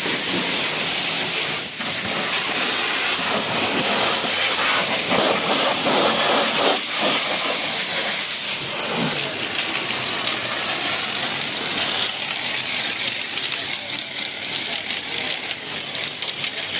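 High-pressure washer spraying water onto a truck, a loud steady hiss; the sharpest part of the hiss drops away about halfway through, leaving a lower spray with spattering ticks.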